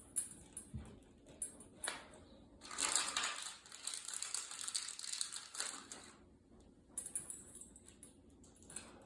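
Hands working with wiring parts: a few sharp clicks, then about three seconds of crinkling, scraping noise, then scattered light clicks.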